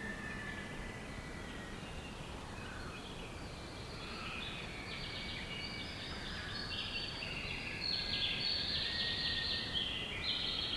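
Birdsong chorus over a steady background hiss: thin whistled notes at first, then from about halfway a dense run of quick chirps and trills that grows louder toward the end.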